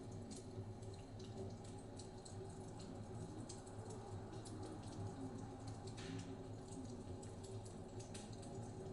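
Wood fire crackling, with frequent small irregular pops and a brief hiss about six seconds in, over a steady low rumble of blizzard wind.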